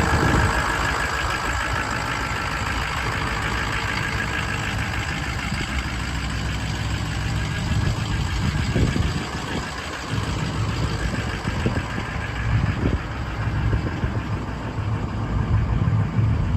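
A Ford 6.0 Power Stroke turbo-diesel V8 running steadily at idle, with a few brief changes in its note partway through.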